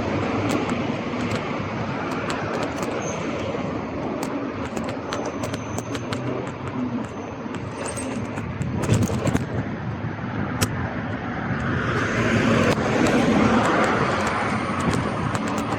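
Scott Scale Gravel 10 gravel bike riding along a city street: steady tyre and wind noise with frequent sharp clicks and rattles, and traffic noise swelling louder about twelve seconds in as a vehicle passes.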